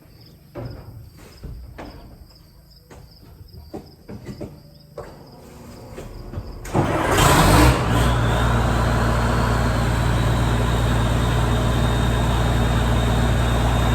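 Case IH 1680 combine's diesel engine cranked by the starter and firing up about seven seconds in, then running steadily at idle with a faint high whine. Before it starts, a few light clicks and knocks.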